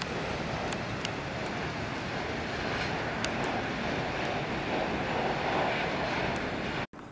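Freight train wagons rolling away on the rails, a steady rumble of wheels on track with a few faint clicks. It cuts off suddenly near the end.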